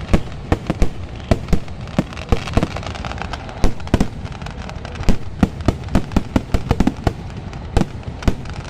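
Kerala-style fireworks display: firecrackers going off in a rapid, irregular string of loud sharp bangs, several a second, over a continuous crackling rumble.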